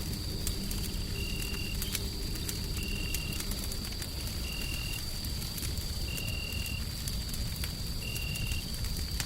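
Wood fire crackling with scattered sharp pops over a steady low rumble of white noise. A short high chirp repeats about every one and a half seconds, five times, above a faint steady high whine.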